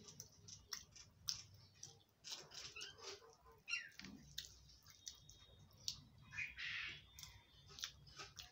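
Quiet close-up eating sounds: irregular wet mouth clicks and smacks while chewing khichdi eaten by hand. A few faint high chirps come in around the middle.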